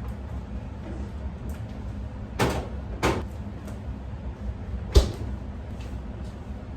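Three sharp knocks or clunks, the last about two seconds after the first pair and the loudest, over a steady low hum, with a few faint ticks between.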